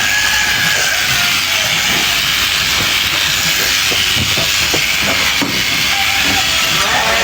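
Sheep shears cutting through fleece: a loud, steady hiss.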